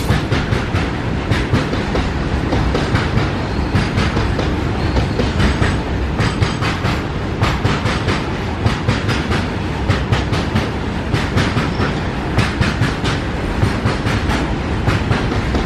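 Long freight train rolling past, its wagon wheels clacking over the rail joints in a quick, irregular series of clicks over a steady rumble.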